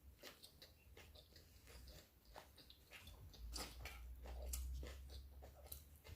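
Faint chewing of a steak and cheese sub, a scatter of soft mouth clicks close to the microphone.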